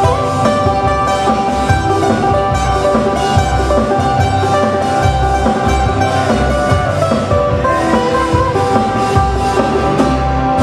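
Live Hawaiian band music, an instrumental passage of plucked guitars over bass and drums with a steady beat.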